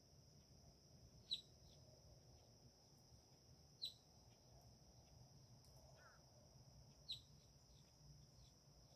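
A bird giving three short, sharp, high chirps a few seconds apart, each dropping quickly in pitch, over a steady high-pitched whine.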